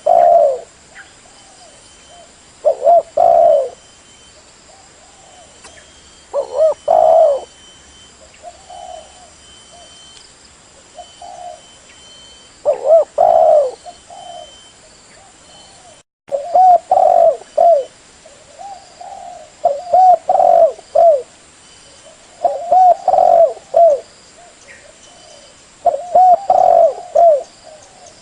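Derkuku dove cooing: phrases of several low coos repeated every few seconds, with a short break in the sound about sixteen seconds in.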